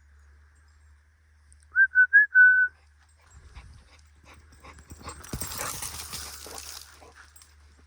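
A dog, an American Bully XL, whining: three short high rising whimpers, then a longer held one. About two seconds later comes a fainter burst of rustling noise.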